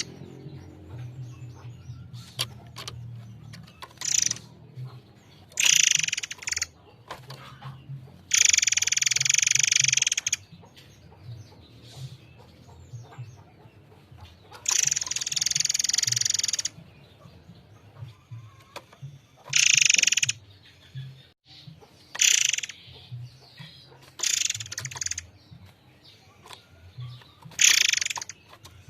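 Murai air mancur songbird singing clear, loud phrases, about nine of them, some up to two seconds long, with irregular pauses between them. A faint low croaking runs underneath, likely frogs.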